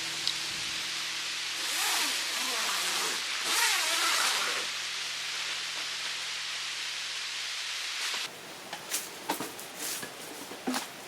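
A steady rushing noise that swells twice, then breaks off about eight seconds in. It gives way to a quieter background with a run of sharp clicks and knocks.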